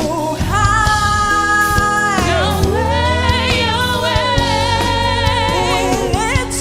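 Gospel worship song: a singer holding long notes with vibrato and slides, backed by a choir and sustained instrumental accompaniment.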